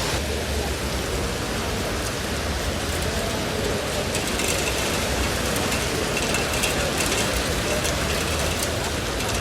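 Heavy rain falling steadily, with scattered sharper drop ticks in the second half.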